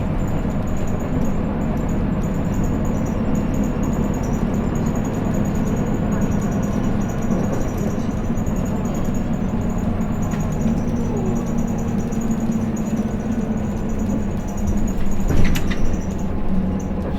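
Cabin running sound of a Hino Blue Ribbon City diesel city bus under way: a steady engine drone with road noise. There is a brief rattle about fifteen seconds in.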